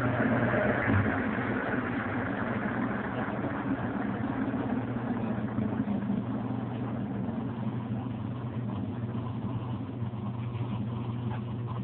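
Lavadora Smart 5 kg washing machine running: a steady motor hum under a rushing, noisy wash sound that eases a little in the second half.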